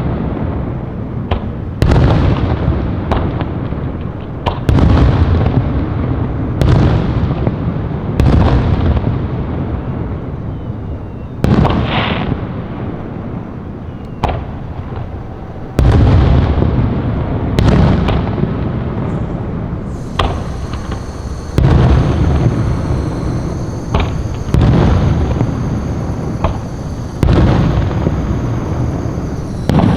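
Aerial fireworks shells bursting in a steady series, a loud boom every two to three seconds, about a dozen in all. Each boom trails off in a long rumbling echo.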